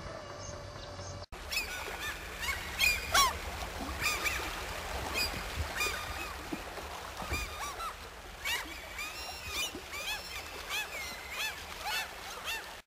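A flock of waterfowl calling, many short arched calls overlapping over a steady outdoor background. It follows a second of songbird chirping, after a brief dropout, and cuts off abruptly near the end.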